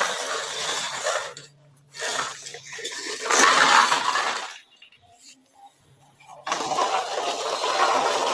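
Three bursts of clattering and rattling, hard objects knocking and scraping together, with short quiet gaps between them.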